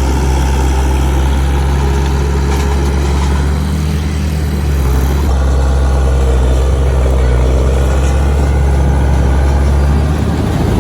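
Heavy diesel engine running steadily, with a brief dip in level about four seconds in.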